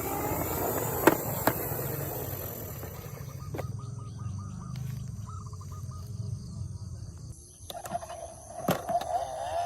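Electronic sound effects from toy vehicles, with two sharp clicks about a second in and a quick rattling run of blips midway. Near the end, a wavering siren-like tone starts.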